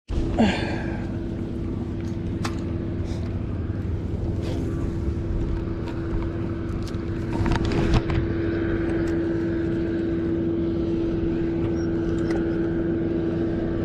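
A boat motor running steadily with a constant hum, with a few light knocks near the middle.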